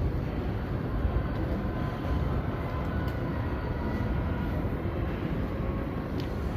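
Steady low rumble of city background noise, with a faint thin whine from about one to five seconds in.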